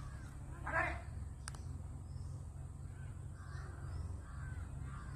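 A bird's single harsh, cawing call about a second in, followed by fainter short calls, over a steady low rumble.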